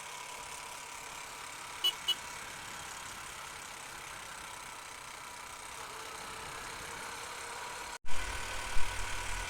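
Honda Unicorn single-cylinder motorcycle running steadily on the road, with a steady hiss of road and wind noise and two short high beeps about two seconds in. After a brief dropout near the end, a louder low rumble of wind on the microphone comes in with a few thumps.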